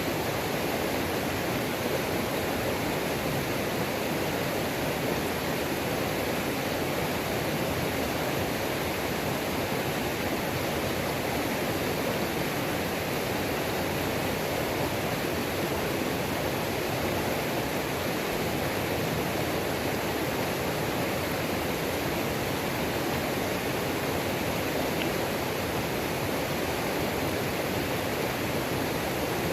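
Waterfall on a mountain creek: steady rushing of falling water, an even unbroken roar with no other sounds standing out.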